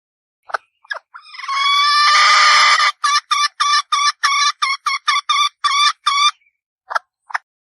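Female red junglefowl (Gallus gallus) hen calling: two short notes, then a long rising note held for nearly two seconds, then a quick run of about a dozen short clucks at about four a second, and two last clucks near the end.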